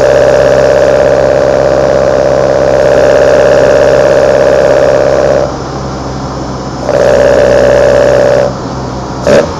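Kadett GS 16v four-cylinder engine heard through its twin side-draft Solex carburetors, a loud steady intake drone at constant engine speed. The drone drops off sharply about five and a half seconds in, comes back for about a second and a half, drops off again, and a short sharp blip comes near the end.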